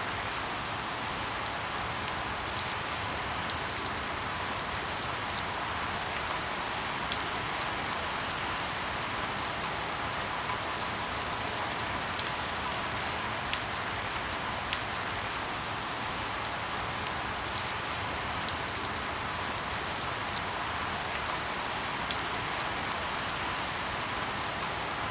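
Heavy rain falling steadily, a constant hiss with scattered sharp drip and drop ticks.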